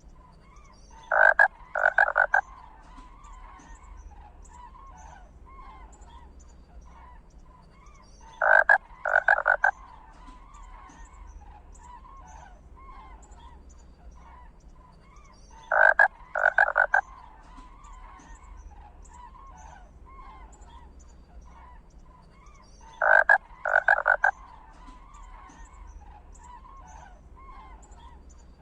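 Groups of three short, loud animal calls that repeat at an even spacing about every seven seconds, four times, over faint scattered high chirps and a low steady hum.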